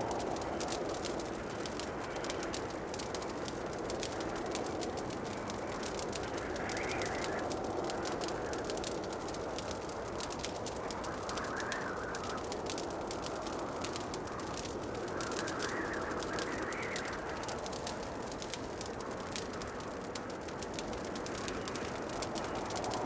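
Wood fire in a fireplace crackling with a steady stream of fine pops over a low, even rushing of the flames, with a few soft swells of higher hiss.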